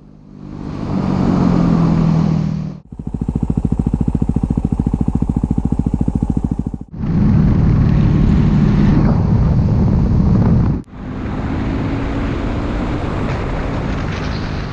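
Yamaha WR dual-sport motorcycle riding on pavement, engine and wind noise in several short clips cut together, with hard cuts about 3, 7 and 11 seconds in. In the second clip the engine's firing comes through as a fast, even pulsing.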